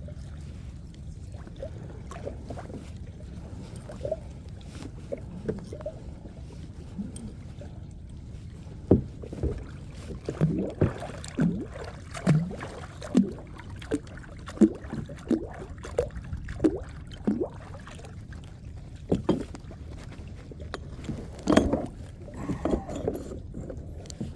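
Kayak under way on the water: a steady low rush of water and wind, with a run of short watery plunks about one every three-quarters of a second, starting about a third of the way in. The plunks fit paddle strokes dipping into the water.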